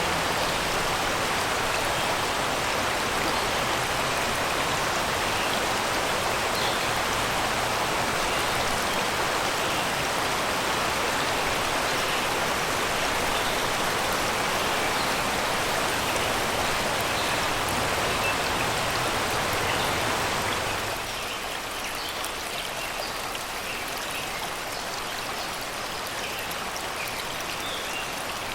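Shallow river water rushing and babbling over rocks and stones, a steady dense splashing. About 21 seconds in it becomes a little quieter and thinner, and faint bird chirps come through above it.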